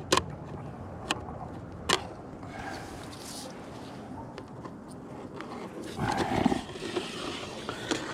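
A plastic HiveGate entrance being handled and pulled from a hive's bottom board: a few light clicks in the first two seconds, then a louder scrape about six seconds in.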